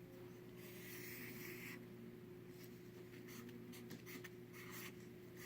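Faint scratching of handwriting strokes: one long stroke and a shorter one in the first half, then several short quick strokes, over a faint steady hum.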